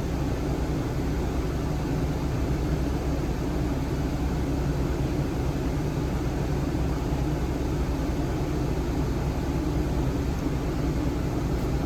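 A machine running steadily, a low even drone with several humming tones and no change in speed.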